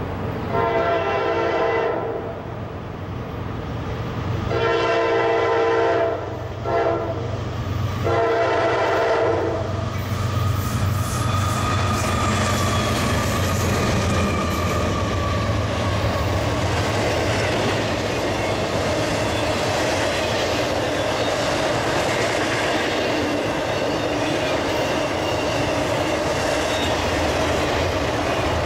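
Norfolk Southern freight train's GE diesel locomotives (AC44C6M, ES44DC, AC44C6M) sounding their horn four times in the first ten seconds as they approach, then passing at speed with the diesels running. The intermodal well cars and trailers then roll by with a steady clickety-clack of wheels over rail joints.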